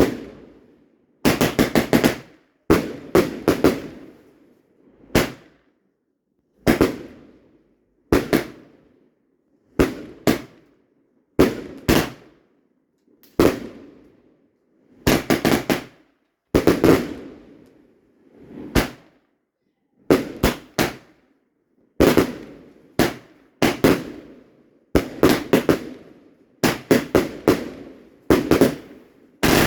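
Fireworks going off: loud sharp bangs, often several in quick succession, repeating every second or two, each with a fading echo.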